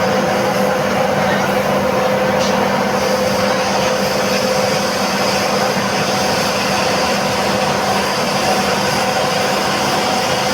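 Loud, steady machine noise with a constant hum, running unbroken with no pauses or strikes.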